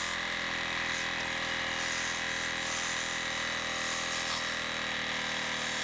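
Air compressor running with a steady motor hum, while compressed air hisses into a brake caliper through its brake-hose port to inflate the piston's dust boot. The hiss swells briefly a few times.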